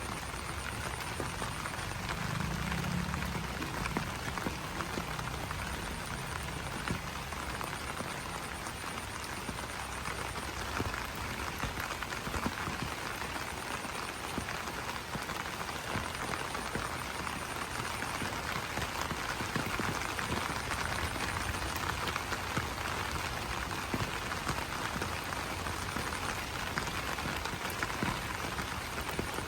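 Steady rain pattering on broad banana leaves: a dense, even hiss of many small drop taps. A faint, high, pulsing trill comes and goes, and a brief low call sounds about two to three seconds in.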